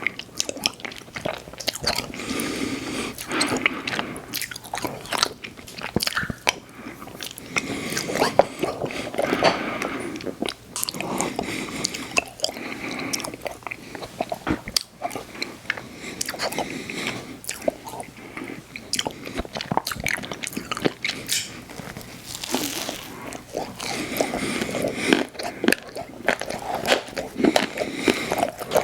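Close-miked eating of ice cream desserts: big bites and chewing with crisp crunching, a dense run of irregular clicks and crackles.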